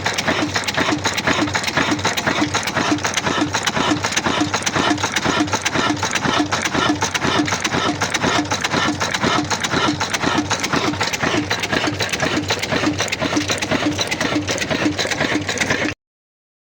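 Old Ruston diesel engine driving a tube well pump, running steadily with an even, rhythmic beat. The sound cuts off abruptly just before the end.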